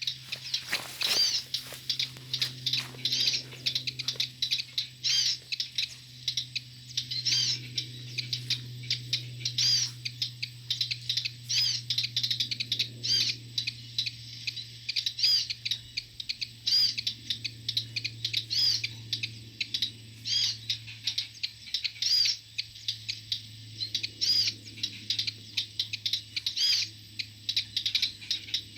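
Small songbird, a ciblek gunung (prinia), giving short sharp chirps over and over, roughly two a second, with a steady low hum underneath.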